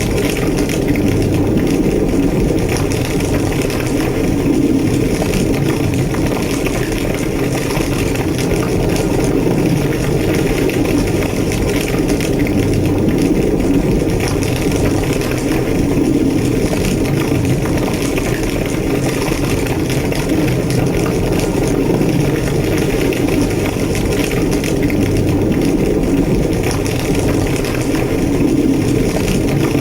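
A large structure fire burning with a steady, loud low roar and crackling, the roar of a burning building.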